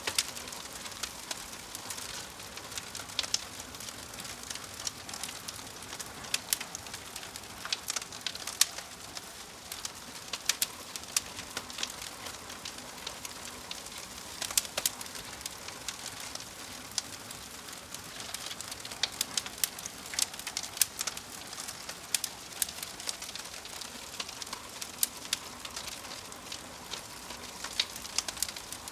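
Wood fire of burning logs crackling: a steady hiss broken by many irregular sharp pops and snaps, a few of them louder than the rest.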